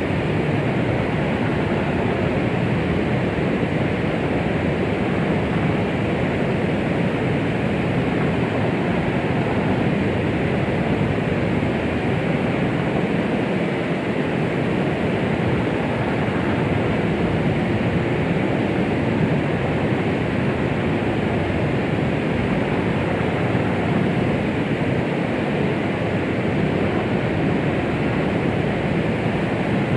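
Steady, unchanging rushing noise, heavier in the low and middle range than a bright hiss: white noise played as a 'womb sound' to soothe a baby to sleep.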